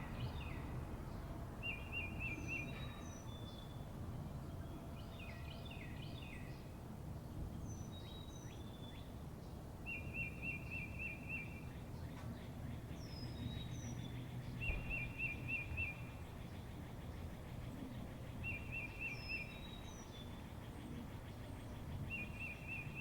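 Several songbirds calling in the open, one repeating a short rapid trill every few seconds, others giving brief high down-slurred notes, over a steady low rumble of background noise.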